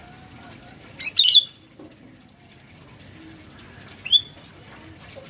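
Sooty-headed bulbul calling: a loud, quick two-part burst of liquid notes about a second in, then a single shorter note about four seconds in, over a faint steady hiss.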